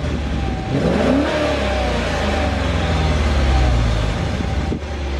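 2016 Dodge Challenger R/T's 5.7-litre V8 on its stock exhaust, heard from outside the car, revved up about a second in and then settling back down toward idle.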